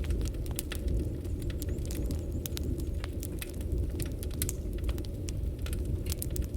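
Wood fire burning with a steady low rumble and frequent sharp, irregular crackles and pops from the burning logs.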